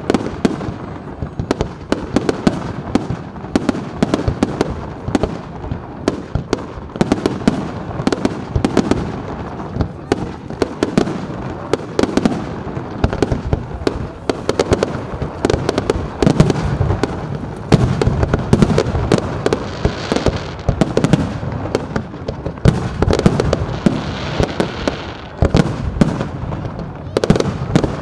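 Fireworks display: a rapid, unbroken run of aerial shell bursts, bangs and crackles overlapping one another.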